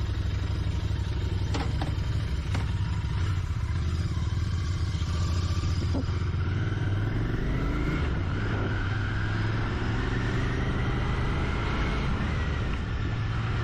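Royal Enfield Continental GT 650's 648 cc parallel-twin engine running as the motorcycle rides off, rising in pitch from about six seconds in as it accelerates. A few light clicks come in the first few seconds.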